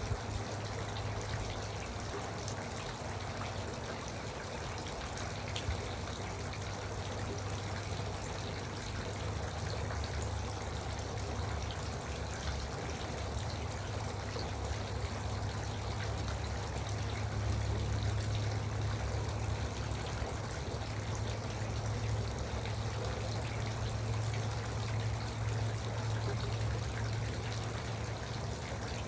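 Garden water fountain trickling and splashing steadily, with a steady low hum underneath.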